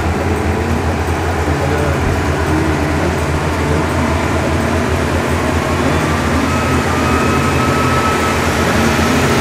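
Passenger train rumbling steadily with a loud low drone, growing slightly louder, and a faint thin high squeal joining in about two-thirds of the way through.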